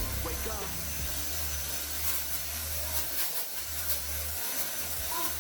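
Small electric motor of a converted Samsung handheld vacuum cleaner running steadily, giving an even noise over a low hum.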